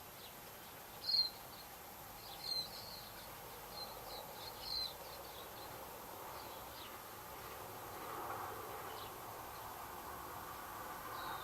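Small birds giving a few short, high chirps in the first five seconds, over a steady faint hum that swells slightly after about eight seconds.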